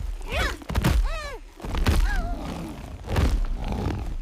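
Cartoon battle sound effects: a run of heavy thuds and impacts with deep rumble, mixed with several short creature cries that rise and fall in pitch, from the monster being struck down.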